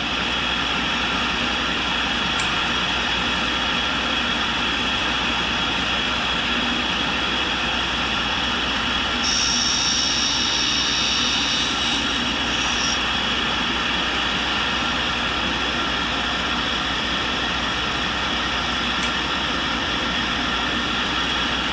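A tool and cutter grinder runs steadily with a constant hiss and hum while it regrinds a high-speed steel roughing end mill. From about nine to thirteen seconds in, a brief higher-pitched grinding sound joins as the wheel passes along a flute.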